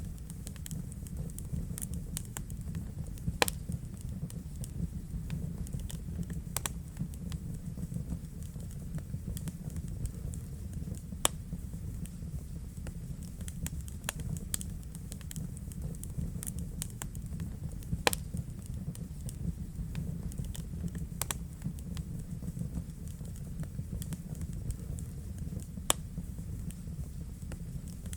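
Wood fire burning in a fireplace, crackling: a steady low rumble of flames under frequent irregular snaps, with a few louder pops.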